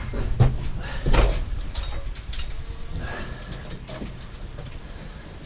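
Scrap metal being handled: two heavy knocks about half a second and a second in, followed by lighter clinks and rattles that die away.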